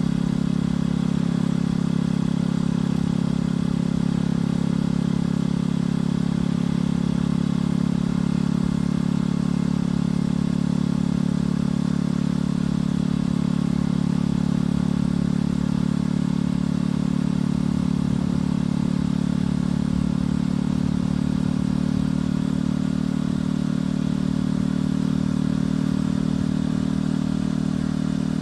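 Motorcycle engine and exhaust running at a steady cruise while riding, with an unbroken low engine note that barely changes in pitch.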